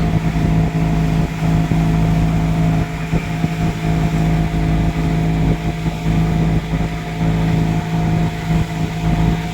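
Boat engine running steadily at cruising speed, a constant drone with a rumble of water and wind buffeting the microphone.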